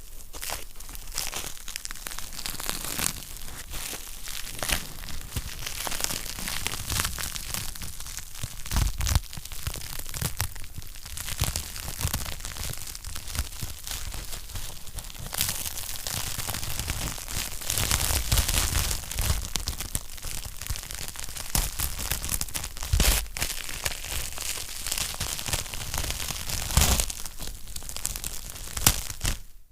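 Wood fire crackling in a fireplace: a continuous run of small pops and snaps over a soft hiss, with a few louder pops scattered through, the sharpest about 9, 18, 23 and 27 seconds in.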